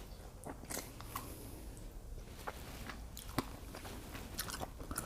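A person chewing and biting mouthfuls of shrimp, mussels and fettuccine, with scattered small wet clicks and smacks, the sharpest a little past the middle.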